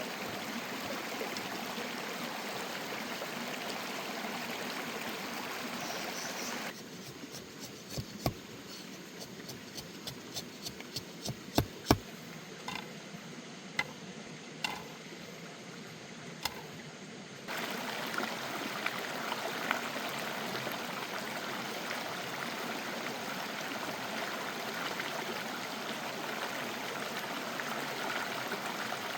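Steady rushing of a flowing stream. From about 7 s to about 17 s it gives way to a quieter stretch with a scatter of sharp clicks and knocks, then the stream sound returns.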